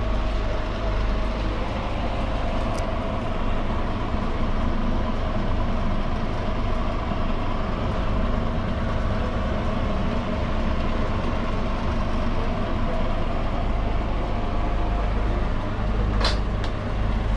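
Steady low rumble of a large idling engine with a continuous drone over it, broken by two brief sharp clicks, one about three seconds in and one near the end.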